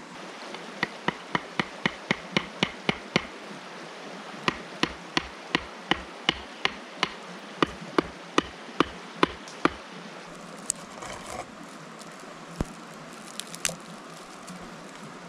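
Firewood being struck repeatedly, as in chopping or splitting it for a campfire. There is a quick run of about ten sharp knocks, a short pause, then about a dozen slower, evenly spaced knocks that stop around ten seconds in.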